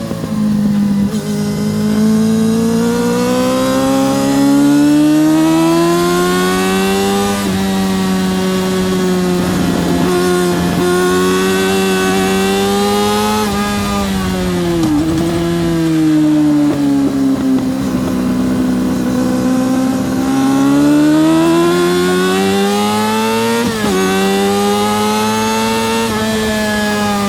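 Yamaha R6 RJ03's 600cc inline-four engine at racing revs, heard on board over wind rush. The pitch climbs through the gears and falls away on braking, with quick blips on downshifts about halfway through and again near the end.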